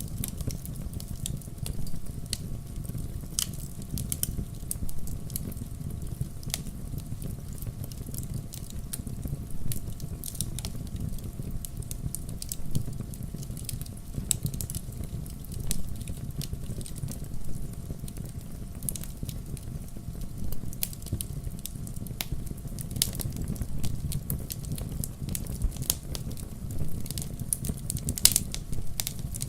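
Wood fire burning in a fireplace: a steady low rumble of the flames with irregular sharp crackles and pops, a few louder ones near the end.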